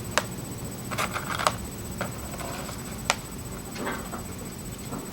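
A few sharp clicks and light knocks, about five scattered irregularly, over a faint steady hiss.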